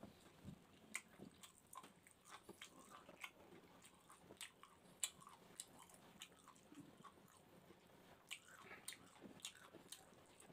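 Faint close-up chewing of barbecued chicken gizzard and rice, with scattered mouth clicks and smacks, the sharpest about five seconds in.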